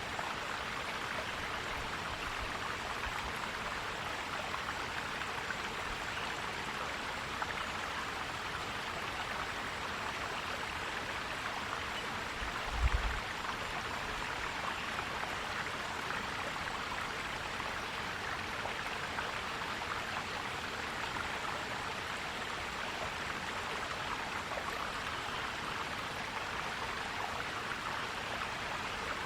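Forest stream flowing and gurgling steadily. About halfway through there is a brief low thump.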